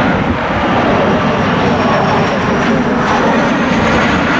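Jet airliner engines running at a distance, a steady rush with a faint high whine in the second half, mixed with wind buffeting the microphone.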